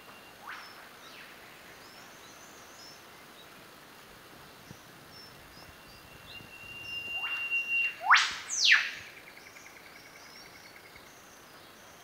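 Australian rainforest birds calling: a short sweeping call near the start and faint high chirps throughout, then a long steady whistle that ends in two loud, sharp whip-like upward sweeps about eight seconds in, followed by a quick run of short notes.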